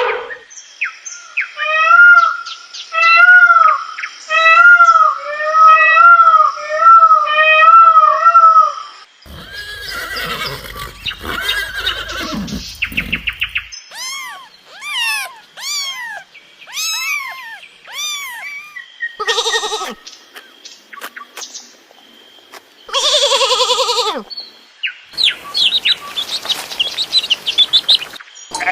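A string of different animal calls, one after another. First comes a run of about eight repeated pitched calls, each arching up and down. Then a noisy stretch, a series of quick falling whistled calls, and several shorter calls and rapid clicking near the end.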